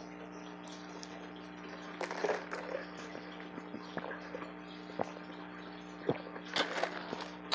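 Close-miked crunching and crackling of refrozen ice in scattered bites, with a steady low hum underneath.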